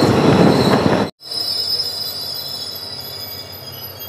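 Passenger train coach running along a station platform, with loud wheel-on-rail noise and a high squeal as it slows. The sound cuts off suddenly about a second in, then returns much quieter, with a thin high squeal slowly fading as the train comes to a halt.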